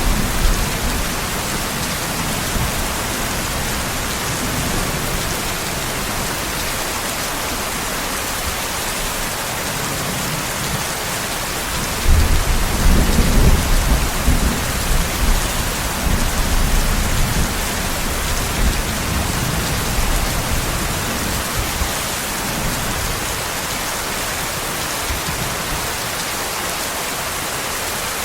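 Steady heavy rain falling, with a low rumble of thunder about twelve seconds in that swells and dies away over several seconds.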